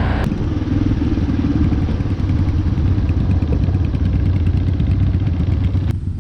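ATV engine running steadily as the quad rides along a dirt trail.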